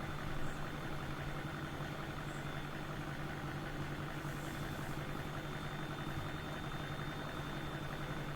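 Steady low background hum with a faint, thin high-pitched whine above it, unchanging throughout.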